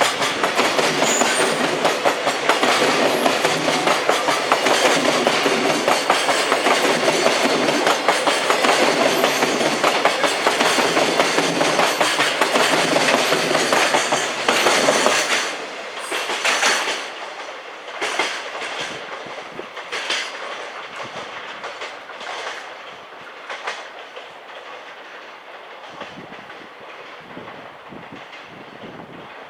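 Freight train passing, its wheels clattering over the rail joints in a dense, steady clickety-clack. About halfway through the rattle drops away, leaving separate joint clacks that grow fainter as the train recedes.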